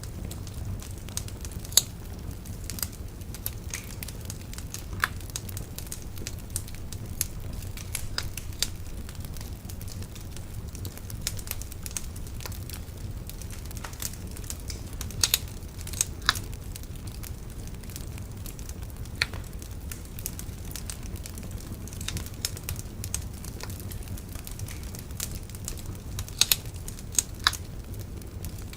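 Bonfire crackling, with irregular sharp pops and snaps over a steady low rumble; a quick cluster of louder pops about 15 to 16 s in and again near the end.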